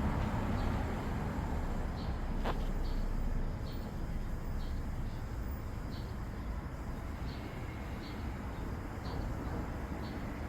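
Hyundai LF Sonata running at idle with its air-conditioning on while refrigerant is charged into the system: a steady running noise, with faint short ticks recurring about once a second and a single sharp click about two and a half seconds in.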